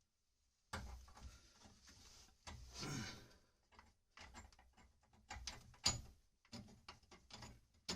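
Faint clicks, knocks and rustling of tools and copper pipe fittings being handled, in scattered short bursts after a brief silence.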